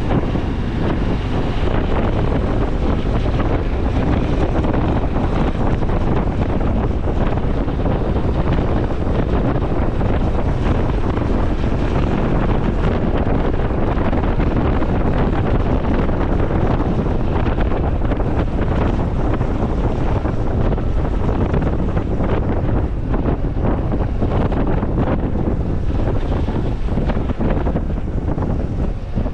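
Heavy wind rushing over the microphone of a Honda CT125 Hunter Cub at riding speed, steady throughout, with the bike's single-cylinder engine running underneath.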